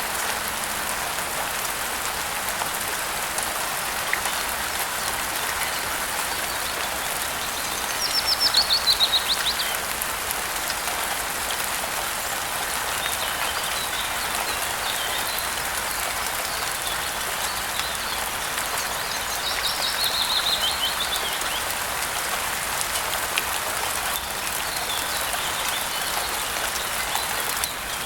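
Steady rain falling, with a songbird twice singing a short, loud phrase of chirps that falls in pitch, about 8 seconds in and again about 20 seconds in, and fainter chirps in between.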